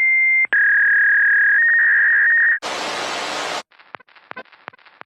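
Loud electronic beep tones: a high steady tone that drops in pitch after about half a second, then steps up and warbles, followed by about a second of static hiss that cuts off sharply, leaving faint scattered clicks.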